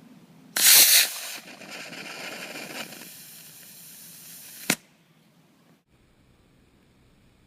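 Estes 1/2A3 model rocket motor firing: a sudden loud rushing hiss that lasts about half a second, then drops to a quieter hiss that fades over the next few seconds and ends in one sharp pop.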